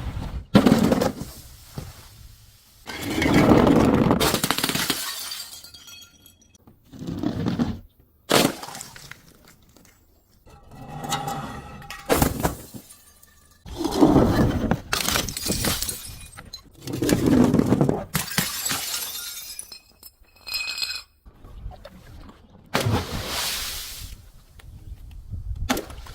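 Glass bottles being crushed and breaking: a series of about ten crunching breaks, some drawn out over a second or two, with shards clinking and ringing between them.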